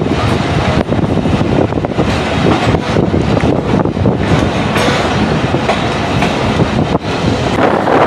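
Passenger train running and picking up speed, its wheels clattering over the rail joints in a steady loud rumble.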